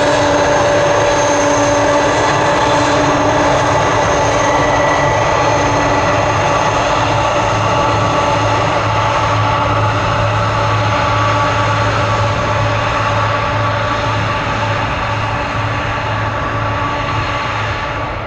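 Airliner engines running loudly and steadily, several whining tones over a rushing roar, slowly easing off over the last few seconds.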